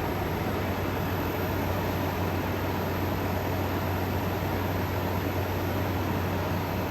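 Frigidaire Gallery GHWQ103WC1 10,000 BTU dual-inverter window air conditioner running steadily in cooling mode: an even fan rush of air over a low steady hum.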